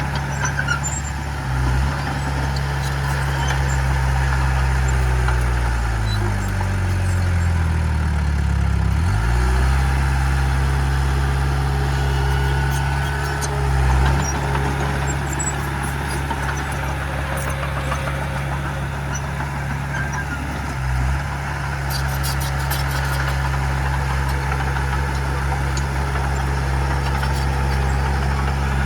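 Heavy diesel engine of earthmoving equipment running steadily. It revs up in pitch for a few seconds about six seconds in, then drops sharply back.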